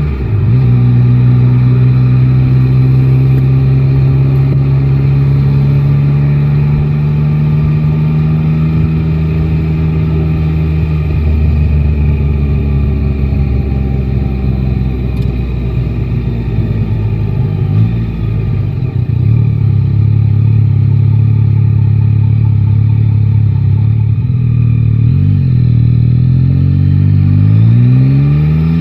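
Yamaha Tracer 9 GT's inline three-cylinder engine running under way in city traffic, the note held steady for long stretches. It drops lower about a third of the way in, then rises over the last few seconds as the bike accelerates, with a brief dip at a gear change near the end.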